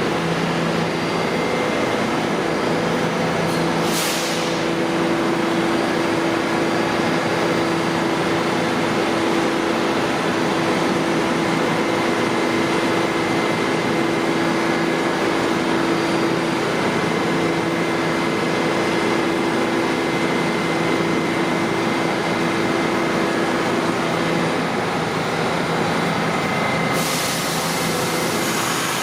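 New York City subway train standing in the station with a steady electrical hum from its equipment. A short hiss of air comes about four seconds in, and another hiss of air starts near the end.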